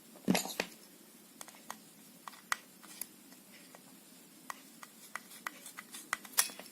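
Irregular small clicks and taps of a hair straightener's plastic housing and screw being handled and fitted during reassembly, with a louder knock about a third of a second in and another near the end.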